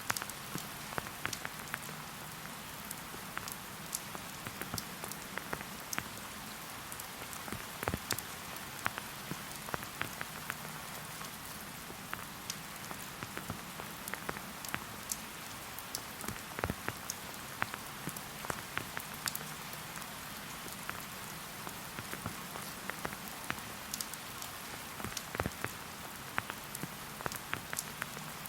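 Steady rain falling in a forest, an even hiss with many separate drops pattering close by.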